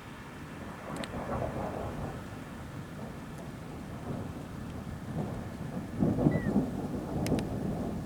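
Thunder rumbling during a thunderstorm, swelling about a second in and again more strongly around six seconds in, over a steady hiss of rain.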